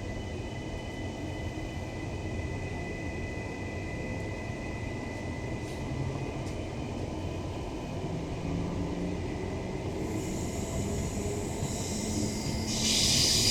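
Queensland Rail NGR electric multiple unit pulling away, heard from inside the car: a steady low rolling rumble, with a low whine that climbs in pitch as the train gathers speed. A high hiss builds up and gets sharply louder near the end.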